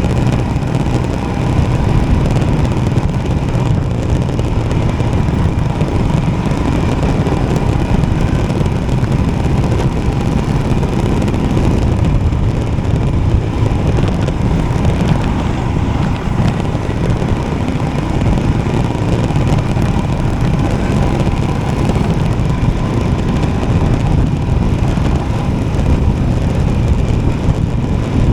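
Royal Enfield Himalayan single-cylinder motorcycle being ridden at a steady pace, its engine running evenly with no change in speed.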